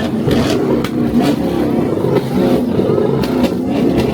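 Car engines running, loud and continuous, with several sharp clicks.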